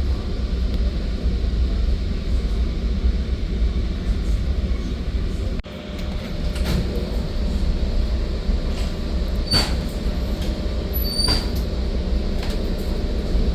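Metra commuter train rolling along the rails, heard from inside the passenger car: a steady low rumble with a momentary dropout near the middle. A few sharp clicks and brief high squeaks come from the wheels and car near the end.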